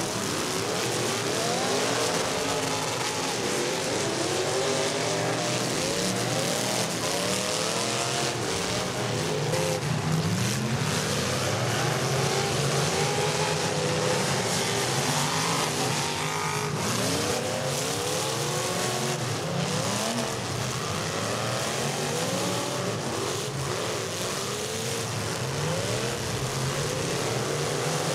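Engines of several demolition derby cars revving hard at once, their pitches rising and falling over one another without a break as the cars push and ram each other.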